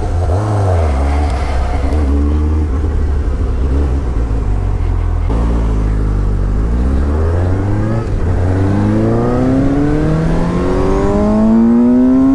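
Suzuki GSX-S750's four-cylinder engine under way. The revs dip and pick up in the first few seconds, then climb steadily through the second half as the bike accelerates hard.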